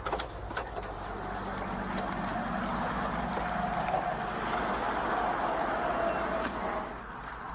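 A road vehicle passing on the highway: a rush of tyre and engine noise that builds from about a second and a half in and fades near the end.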